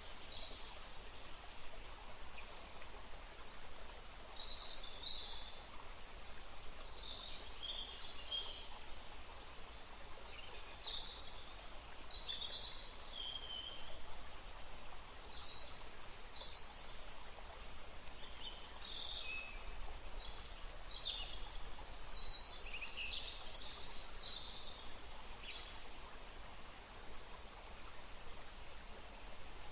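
Many birds calling and chirping in short, scattered phrases, busiest in the second half, over a steady rushing ambience of wind in trees and running water.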